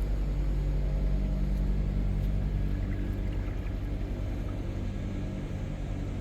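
Car engine running with a steady low hum, even throughout.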